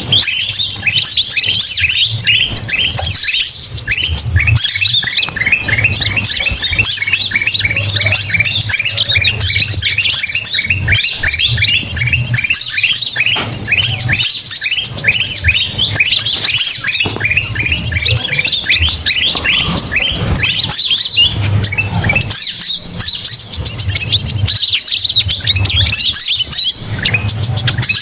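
A dense, noisy chorus of many small songbirds, kutilang mas among them, chirping and twittering rapidly without a break. A low hum comes and goes underneath.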